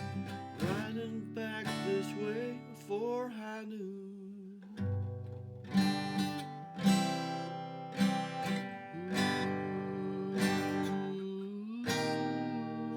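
Acoustic guitar strumming chords in a wordless stretch of a song, with a melody line over the chords that glides up and down in pitch.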